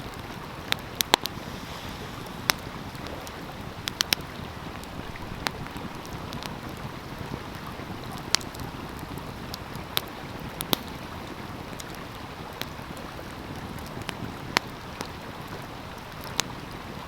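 Wood fire crackling, with sharp pops at irregular intervals, over the steady rush of a flowing stream.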